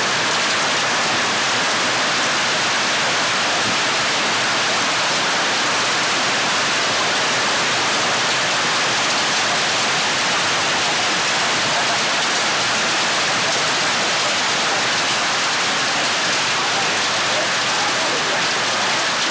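Hailstorm: hail and rain falling hard and steady on surfaces, an even, unbroken hiss with no single strikes standing out.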